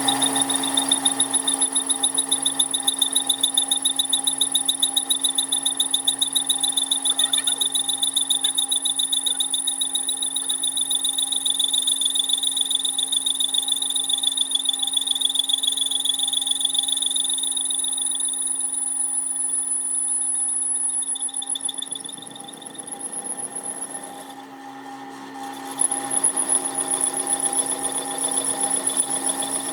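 A workshop machine running steadily with a high whine and a fast flutter, easing off and dropping briefly about three-quarters of the way through before running again.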